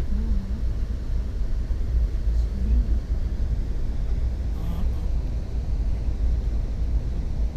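Passenger train running, heard from inside a car as a steady low rumble.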